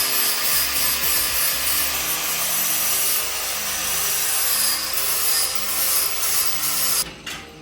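Grinder grinding down excess weld beads on a welded metal stool frame: a steady, harsh grinding noise that cuts off abruptly about seven seconds in.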